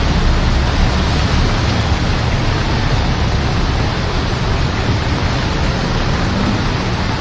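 Heavy rain falling steadily, a dense even hiss with a deep rumble underneath.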